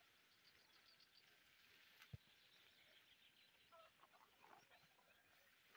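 Near silence: faint outdoor ambience with distant bird chirps and a single soft click about two seconds in.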